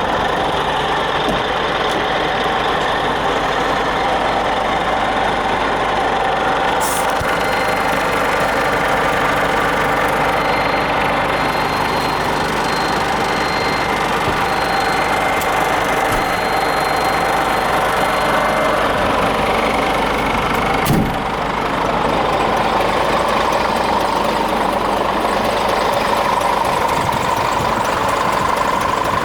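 Scania G450 truck's diesel engine running steadily at idle. A single sharp click comes about two-thirds of the way through.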